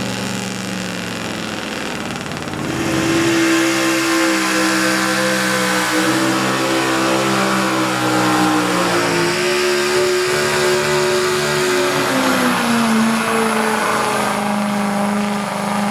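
Pickup truck engine running hard under load as it pulls a weight-transfer sled. It gets louder about two and a half seconds in, and its pitch steps down a few times later on.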